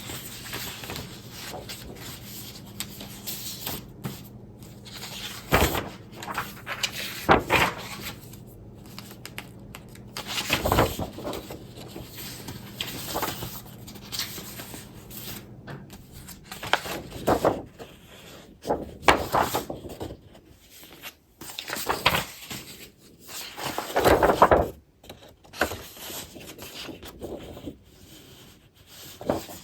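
Sheets of 12x12 scrapbook paper being flipped and slid against each other: irregular rustling and swishing, with a few louder sweeps as pages are turned, the loudest about three quarters of the way through.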